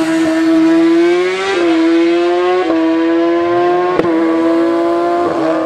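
Drag-racing sportbike at full throttle, its high-revving engine holding a high, nearly steady pitch. The pitch dips briefly and recovers four times, at each quick upshift, about every second and a quarter.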